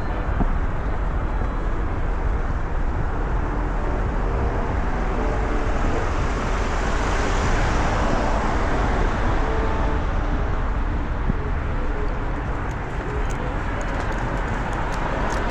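Steady city road traffic, with one vehicle swelling louder as it passes about halfway through. A few faint light ticks come near the end.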